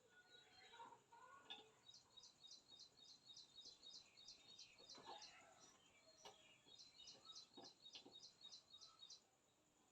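Faint bird chirping: a quick run of short, high chirps, several a second, from about two seconds in until shortly before the end, with a few soft taps among them.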